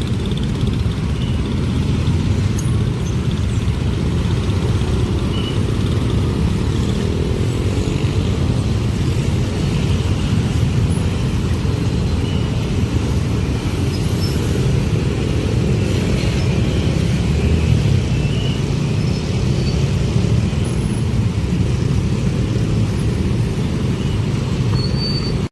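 A train passing close by: a loud, steady low rumble that holds throughout, then cuts off suddenly at the end.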